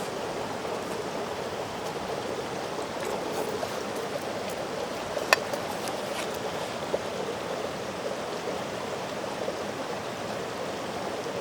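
Mountain stream running with a steady rush of water, with one sharp click about five seconds in and a fainter one a second and a half later.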